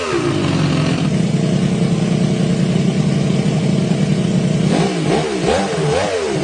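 Custom three-cylinder motorcycle engine built from Honda EX5 engines, running: a rev falls back to a steady idle, then is blipped in several quick revs near the end.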